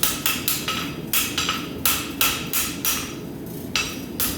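Hand hammer blows on hot steel against an anvil, about three strikes a second, each with a short metallic ring, with a pause of about a second after the middle before the blows resume.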